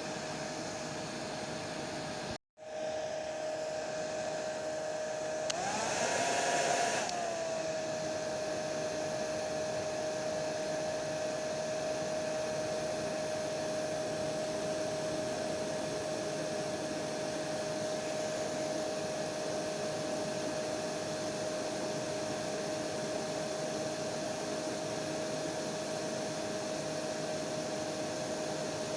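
Hair dryer running steadily: rushing air with a constant whine from the motor. It drops out for an instant about two and a half seconds in, then briefly grows louder around six to seven seconds before settling back.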